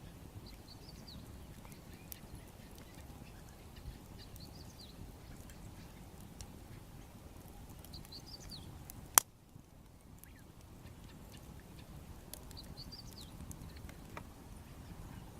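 Wood fire crackling faintly over a low steady rumble, with one sharp pop about nine seconds in. A small bird gives a short wavering call four times, about every four seconds.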